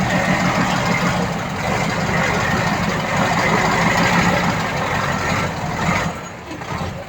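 Heavy diesel earthmoving machinery running steadily, with a short reversing beep just after five seconds in; the engine noise drops off about six seconds in.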